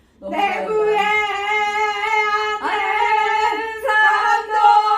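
A woman's voice holding a long vowel at one steady, fairly high pitch, broken into three held notes that start again about two and a half seconds in and once more about a second later. This is a voice-training vowel done with abdominal breathing.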